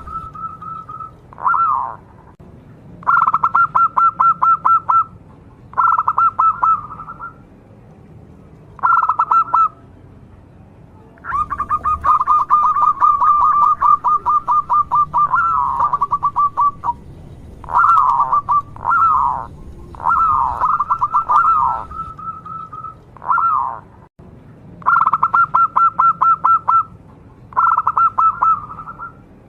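Local-strain zebra dove (perkutut) cooing: repeated phrases of rapid, purring notes, each phrase one to two seconds long with short gaps between.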